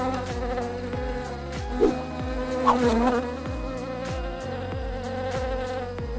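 Bees buzzing in flight: a steady buzz whose pitch wavers, with brief swoops in pitch about two and three seconds in.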